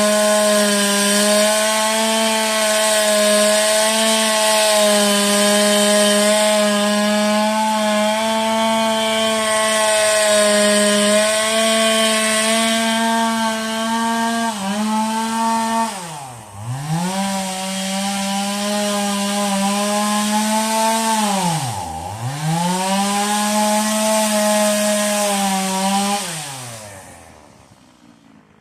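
Stihl two-stroke chainsaw running at full throttle, cutting wood. Its revs dip sharply and recover twice, then it falls off and goes quiet near the end as the throttle is released.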